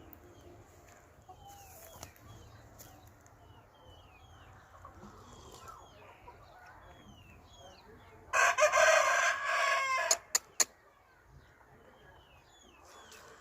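Parrot-beak Aseel rooster crowing once, about eight seconds in, for just under two seconds. A few sharp clicks follow the crow, and small birds chirp repeatedly in the background.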